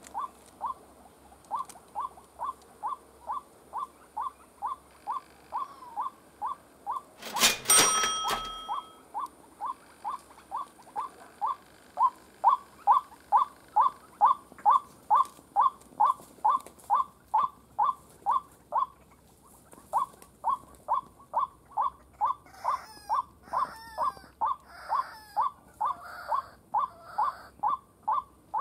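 White-breasted waterhen calling: a short note repeated steadily, about two to three times a second, with a brief pause about two-thirds of the way through. A single loud sudden noise cuts in near the start, and higher, more varied calls join in near the end.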